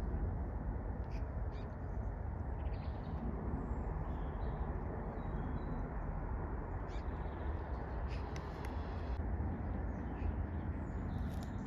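Ducks quacking and calling in short scattered calls over a steady low rumbling noise.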